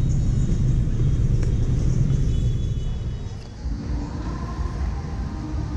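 Busy street traffic, mostly motorbike engines, with a steady low rumble that eases briefly about three and a half seconds in.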